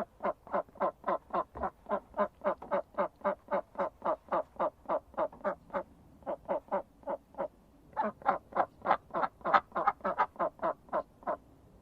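Duck quacking in a fast, steady series, about four short quacks a second, with a brief break about two-thirds of the way through.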